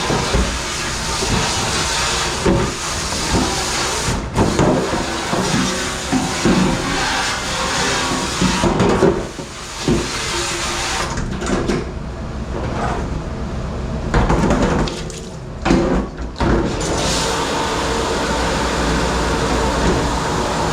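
Running water hissing in a commercial dish pit, with dishes and wares knocking and clattering. The water sound drops away for several seconds about halfway through, leaving only the clatter, then starts again.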